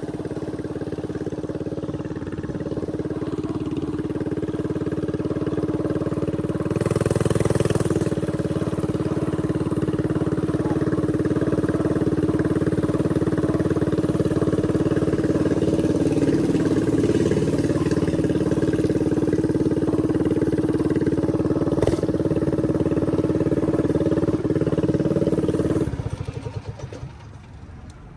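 Stretched mini bike's small engine running at a steady pitch while riding, with a brief louder rush about seven seconds in. Near the end the engine note drops away suddenly and the sound goes much quieter.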